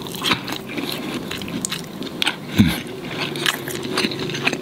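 A person chewing a mouthful of fried chicken close to the microphone, with many short, irregular clicks of biting and chewing.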